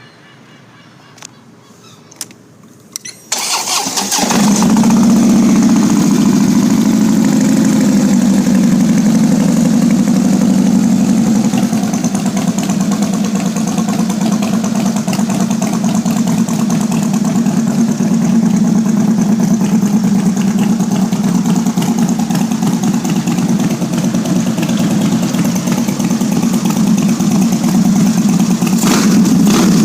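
A Harley-Davidson CVO Ultra Classic Electra Glide's 110 cubic inch V-twin is started: a few light clicks, a brief crank, and the engine catches about four seconds in, then idles steadily.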